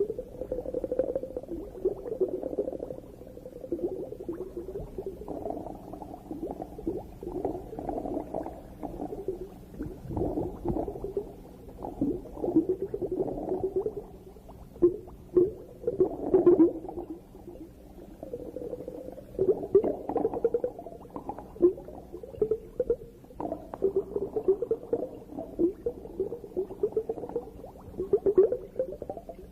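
Muffled underwater bubbling and gurgling, heard from below the surface with no high end. It keeps up an irregular stream and swells in louder clusters several times.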